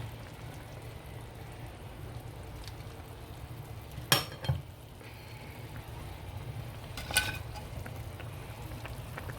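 Chicken pieces being added to a pan of simmering cream gravy, with a faint steady sizzle. A spoon clinks sharply against the pan twice about four seconds in and once more about seven seconds in.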